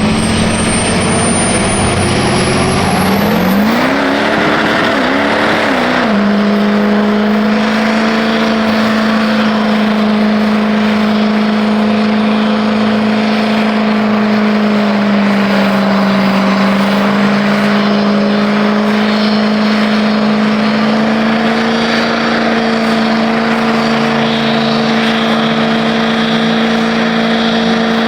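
Truck engine revved hard and held at high revs, as in a burnout. The revs swing up and down a few times early on, then hold nearly steady over a loud rushing noise.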